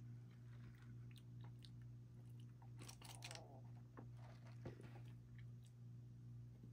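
Faint, close chewing of a chicken sandwich, with scattered small crunching clicks and a short cluster of them about three seconds in, over a steady low hum.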